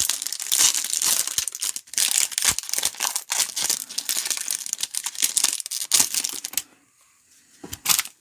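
A trading-card pack wrapper being torn open and crinkled in the hands, with dense crackling that stops about seven seconds in, then one more short crinkle near the end.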